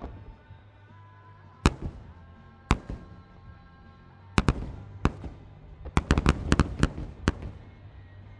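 Aerial firework shells bursting: single bangs about two and three seconds in, a quick pair and another bang around the middle, then a rapid cluster of bangs about six to seven seconds in, each with a rumbling tail. Music plays underneath.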